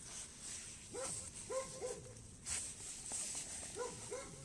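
A dog barking five times in two groups: three barks about a second in and two near the end, with a sharp click in between.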